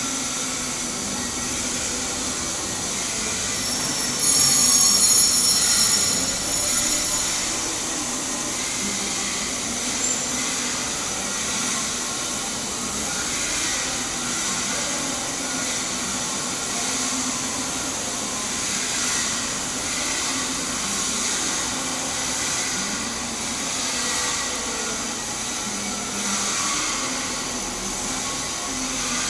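Stick-welding (SMAW) arc with an E7018 electrode, burning steadily with a continuous crackling sizzle while the final cap pass is run on a header. It gets louder for a few seconds about four seconds in.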